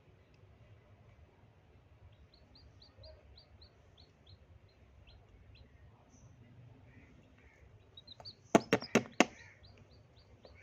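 Newly hatched chicks peeping, a run of short high cheeps about three a second. A quick cluster of four or five sharp knocks comes about eight and a half seconds in, louder than the cheeps, followed by more cheeps.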